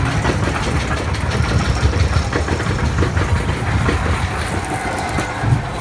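Spinning roller coaster car running on its track: a steady mechanical rumble and rattle with dense clicking throughout.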